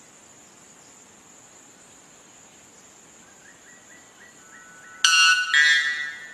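A bird of paradise gives a run of short quiet notes, then a loud, harsh two-part call about five seconds in, over a steady high-pitched insect drone.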